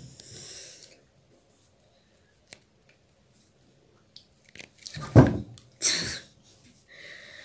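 A girl chewing a mouthful of fuchka (pani puri shells), with a single click a few seconds in. About five seconds in there is a short, loud, muffled vocal sound, followed by a sharp breath.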